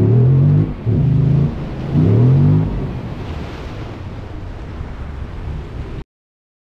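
The Jeep Wrangler Rubicon 392's 6.4-litre Hemi V8 revving in three bursts, the revs climbing in each, then running lower under a steady rushing noise. The sound cuts off abruptly about six seconds in.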